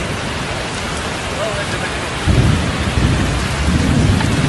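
Heavy rain falling steadily, with a deep rumble rising over it about two seconds in and going on to the end.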